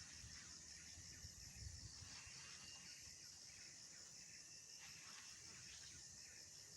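Near silence with faint insect chirping: a high pulse repeating about five times a second over a soft steady hiss.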